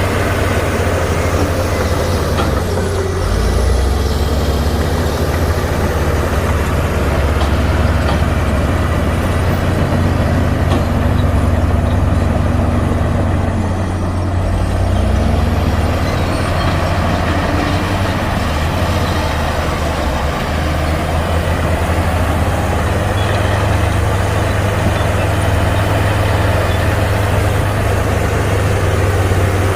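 Heavy diesel engines of earthmoving machinery running steadily at a soil-spreading site: a bulldozer working alongside dump trucks. The engine note dips briefly twice, about 3 and 14 seconds in, as under load, then recovers.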